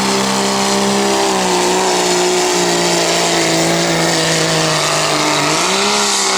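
Dodge Cummins inline-six turbo diesel pickup at full throttle under heavy load, pulling a weight-transfer sled down the track. The engine note holds fairly steady, sags a little partway through, then climbs again near the end.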